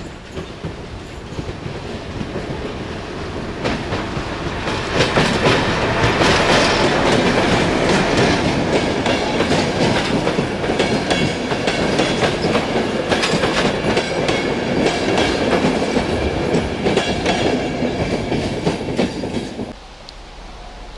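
Slovak Class 750 'Goggle' diesel locomotive approaching and passing with its engine running, followed by passenger coaches rolling by with a rapid clickety-clack of wheels on the rails. The sound builds over the first few seconds and cuts off suddenly near the end.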